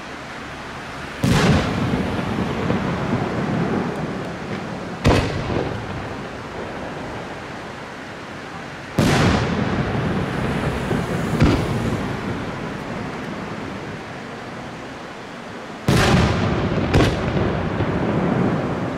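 Aerial firework shells bursting overhead: six sharp booms, some in quick pairs, each followed by a long rolling echo that dies away over a few seconds.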